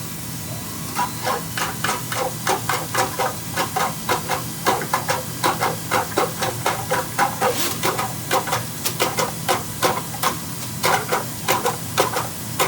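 Electric drain-cleaning machine running with a steady hum, its spinning wire cable knocking and rattling inside the drain pipe in rapid uneven strikes, about three a second, starting about a second in.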